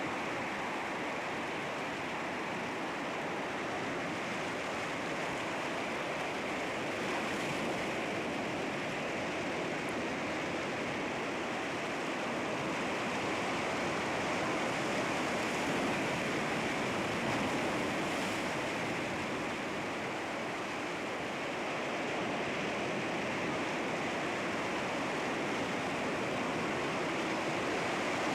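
Sea waves washing against rocks, a continuous surf wash that swells and eases slowly.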